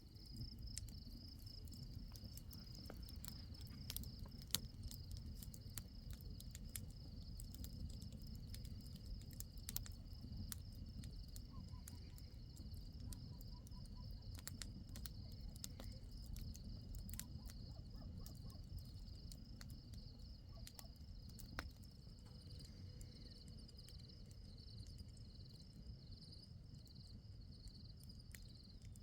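Crickets chirping in a steady, high, pulsing trill, with a low rumble underneath and scattered sharp clicks.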